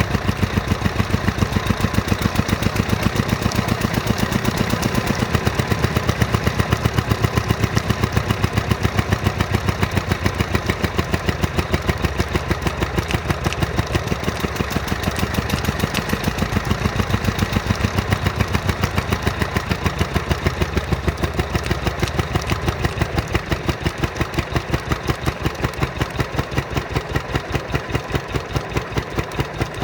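Lister 6 hp single-cylinder diesel stationary engine running steadily, with an even, regular beat of firing strokes.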